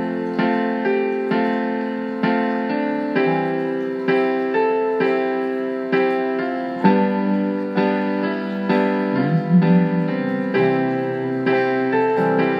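Instrumental intro of a Burmese pop song: keyboard playing an electric-piano part with steady, evenly spaced chords at about two a second.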